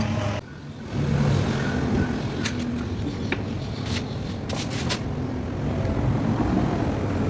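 Car engine running steadily with a low hum, broken by a brief drop about half a second in, with a few sharp clicks near the middle.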